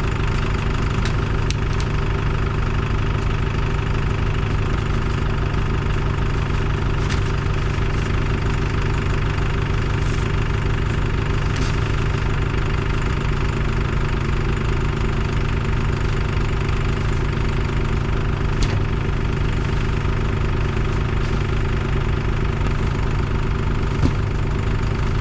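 Engine idling steadily with an even firing beat, and two small knocks in the second half.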